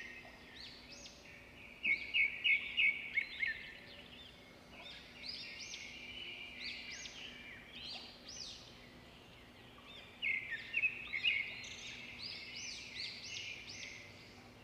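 Birds chirping: a continuous run of quick, repeated arching chirps, with louder clusters of sharp notes about two seconds in and again about ten seconds in.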